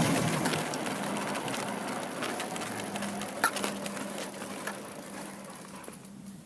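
Motorcycle fading away, its sound growing steadily quieter, with a few faint clicks about halfway through.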